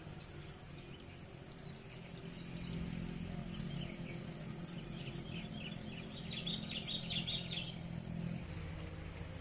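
Tropical outdoor ambience: a steady high insect drone, a bird calling in quick runs of short chirps, loudest in the middle, and a low steady engine hum underneath.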